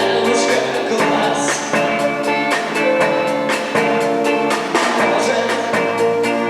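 Live rock band playing, with electric guitar and a drum kit keeping a steady beat.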